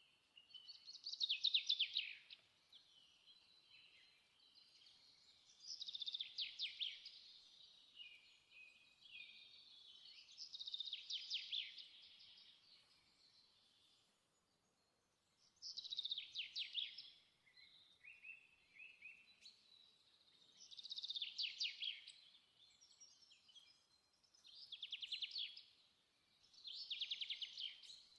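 A songbird singing: short trilled phrases, each a second or two long and sliding slightly downward, repeated every few seconds.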